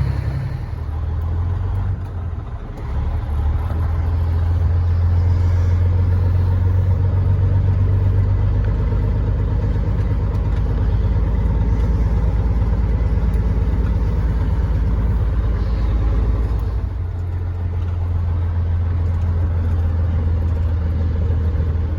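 Caterpillar 3406E inline-six diesel of a Freightliner FLD120 running steadily, heard from inside the cab as a deep, even drone. The engine note dips and changes briefly about two seconds in and again around sixteen seconds.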